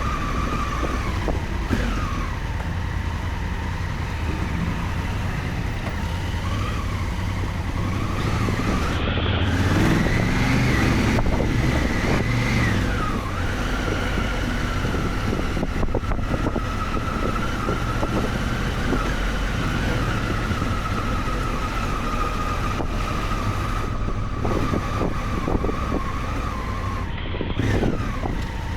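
Honda Africa Twin adventure motorcycle engine running while riding off-road, revving up about eight seconds in and easing back down a few seconds later, then holding steady.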